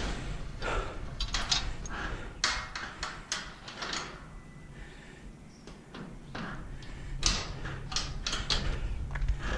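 Irregular clanks and knocks of scrap metal being handled and shifted, with a quieter lull in the middle before a busier run of knocks near the end.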